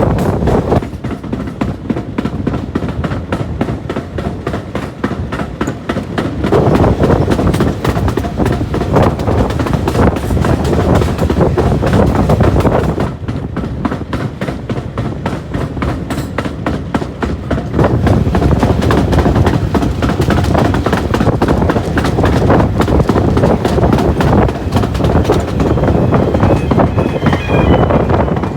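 Heritage railway train running along the track: a steady rumble of wheels with fast clicking over the rails, growing quieter twice and then louder again.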